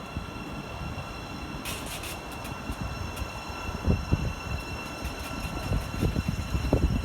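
A train running through a station: a steady low rumble with a thin steady whine, a quick burst of sharp clicks about two seconds in and scattered fainter clicks after, the rumble swelling near the end.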